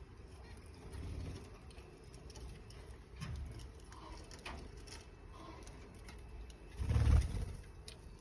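A few faint, short budgerigar chirps and clicks over a low rumble, with one dull, loud thump about seven seconds in.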